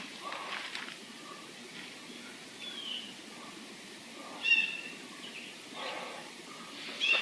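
A series of short, high-pitched animal calls a second or two apart, one of them falling in pitch, with the loudest about halfway through, over a faint background hiss.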